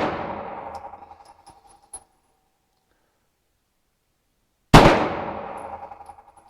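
Beretta Model 1951 9mm pistol fired in slow, deliberate single shots: the echo of one shot dies away at the start, a light click comes about two seconds in, and a second shot cracks about four and a half seconds in, ringing as it fades.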